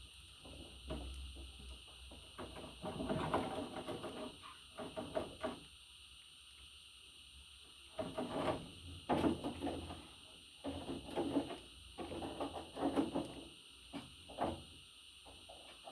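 Pet budgerigar making short, irregular bursts of soft chatter and clicks, with a pause of about two seconds midway.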